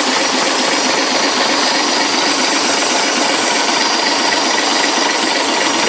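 Leyland engine of a restored recovery truck running steadily, back in the chassis after standing for many years.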